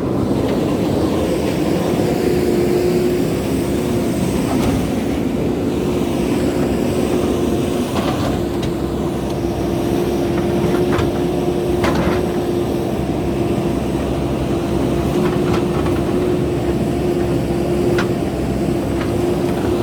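JCB backhoe loader's diesel engine running steadily under load, with a steady tone over the rumble and a few short, faint knocks.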